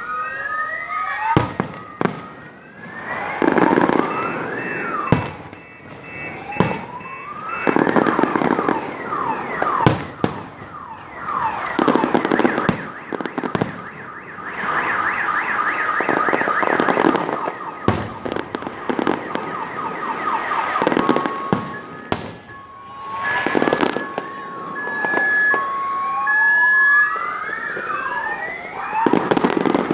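Fireworks display: whistling shells gliding up and down in pitch, dense crackling bursts and sharp bangs. A car alarm beeps in two alternating tones at the start and again about two thirds of the way through.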